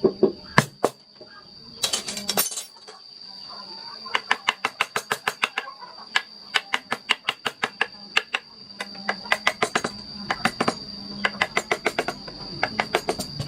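Hand wood carving: a mallet tapping a carving chisel in quick runs of sharp taps, about six to eight a second, with short pauses between runs and a brief scraping sound about two seconds in. A steady high insect drone runs underneath.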